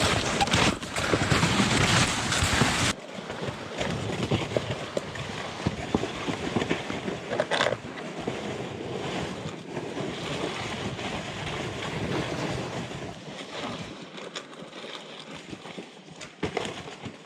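Hiking sounds: footsteps and sleds dragging and scraping over wet snow, slush and dirt, a rough, noisy rustle. It is louder for about the first three seconds, then drops suddenly to a quieter shuffling.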